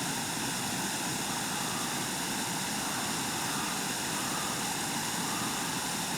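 Small waterfall and creek water rushing steadily.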